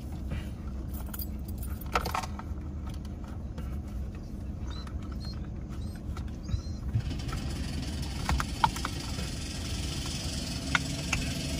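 Vehicle engine idling, heard from inside the cab as a steady low hum, with scattered small metallic clicks and jingles. A faint hiss joins about seven seconds in.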